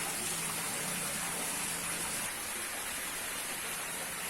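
Steady rushing, hiss-like background noise, with a faint low hum during the first two seconds.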